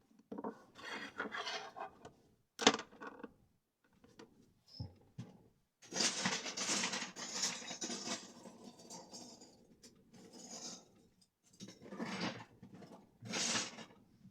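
Plastic Lego bricks clattering and rattling as they are sorted through and handled, with short clicks and a longer stretch of rummaging about six seconds in.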